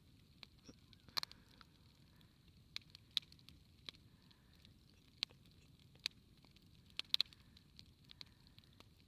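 Wood campfire crackling: irregular sharp pops and snaps over a low hiss, with a louder cluster of pops about a second in and again about seven seconds in.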